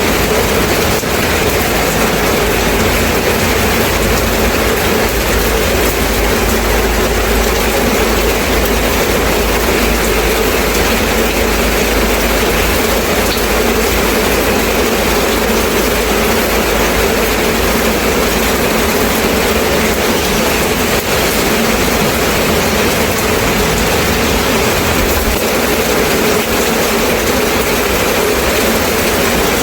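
Steady rain falling, a dense even hiss with a low rumble underneath that does not change.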